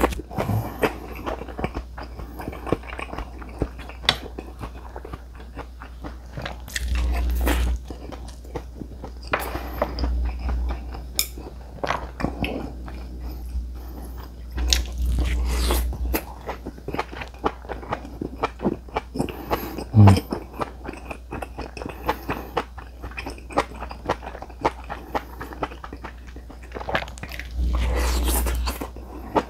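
Close-miked chewing and crunching of Korean seasoned vegetable side dishes such as bracken and bean sprouts, full of small wet mouth clicks. A few brief low rumbles come and go every several seconds.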